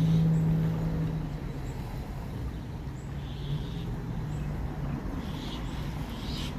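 A motor vehicle's engine running with a low hum, strongest for about the first second and then fading under a steady low rumble, with a few faint high chirps above it.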